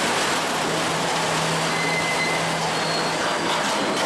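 Train in motion, a loud steady rushing noise with a low steady hum through the middle, in footage of a derailing train.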